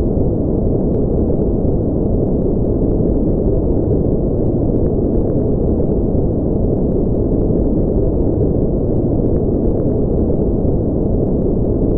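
Steady, unchanging synthetic noise track: a dull, deep hiss with its weight in the low range and no highs, more like brown noise than bright white noise.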